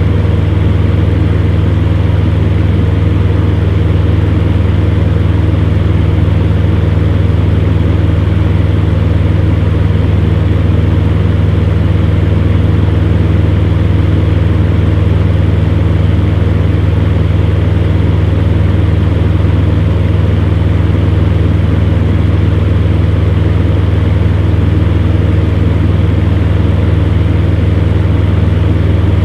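Electric fan heater running steadily: an even rush of blown air over a deep, constant motor hum.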